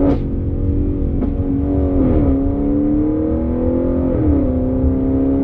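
Audi RS6 Performance's twin-turbo V8, tuned to over 800 PS, heard from inside the cabin as it pulls through the gears. A sharp exhaust crack comes at the start and another about a second in; the engine note drops near two seconds in, climbs steadily, and drops again at a gearshift around four seconds in.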